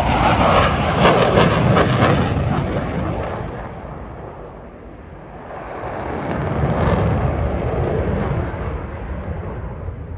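JF-17 Thunder fighter jet's single turbofan passing low and loud with a rough crackle, fading away over a few seconds, then swelling again and fading as the jet comes round.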